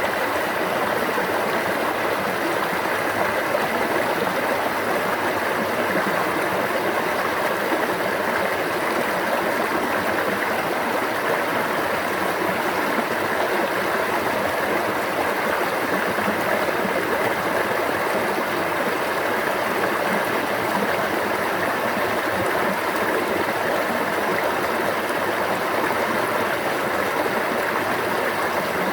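Water flowing in a stream: a steady, unbroken rush and babble.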